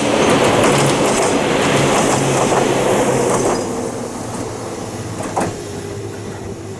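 Ohmi Railway two-car electric train 103F passing close by: loud wheel and rail rumble with sharp clicks as the wheels cross rail joints. After about three and a half seconds the sound drops away as the train runs off into the distance.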